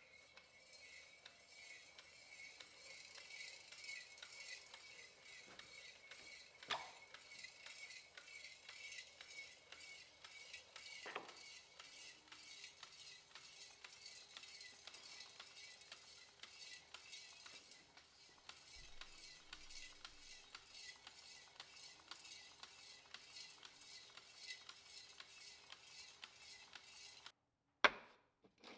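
Faint, quick metallic clinking and rattling from the steel fount of a 1949 Coleman 242C lantern being handled and shaken during a tank rinse, with a couple of sharper knocks along the way.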